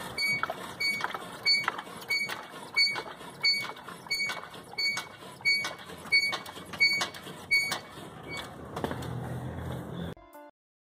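Toyota Hilux SW4 front suspension creaking: a high squeak repeated about three times every two seconds, the sign of a dry shock absorber rod rubbing against its mount. The sound cuts off abruptly near the end.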